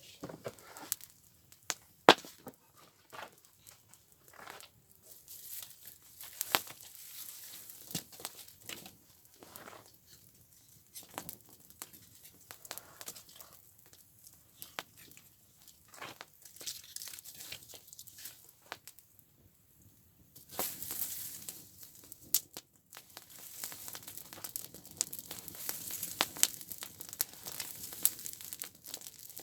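Open fire of burning paper and rubbish crackling, with irregular sharp pops (one loud pop about two seconds in) and a rustling hiss that grows stronger in the last third.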